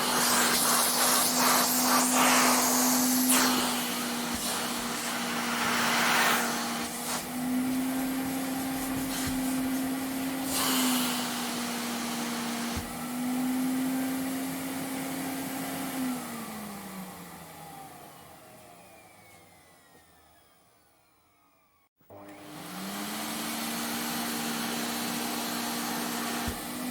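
Vacuum cleaner running with a steady motor hum under a rushing suction noise that swells and eases. Past halfway it is switched off and the motor winds down, its pitch falling, until silence. About six seconds later it is switched on again and spins back up to a steady run.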